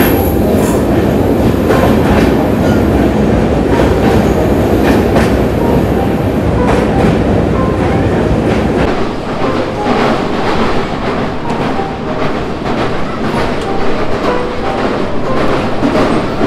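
Passenger train running through a tunnel, heard from an open coach doorway: a loud, dense rumble of wheels on rails. About nine seconds in, as the train leaves the tunnel, the deep rumble thins to a lighter clatter of wheel clicks.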